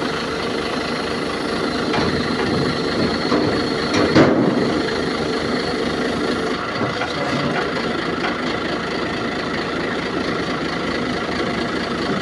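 Boom truck's engine running steadily while its hydraulics lower the boom, with a brief knock about four seconds in.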